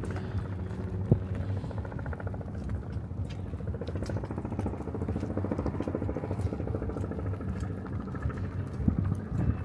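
Steady hum of passing road traffic with a fast, even engine-like pulsing, broken by a few sharp clicks.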